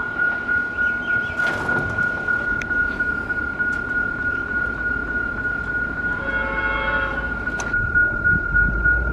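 Level crossing warning bell ringing steadily with a rapid, even pulse. About six seconds in a train horn sounds once for about a second and a half, and a train's low rumble builds near the end as it nears the crossing.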